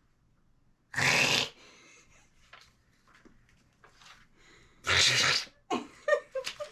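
Two short, noisy, sneeze-like bursts about four seconds apart: a sound played for a mouth-imitation game and a person's mouth copy of it. A few faint short tones follow the second burst.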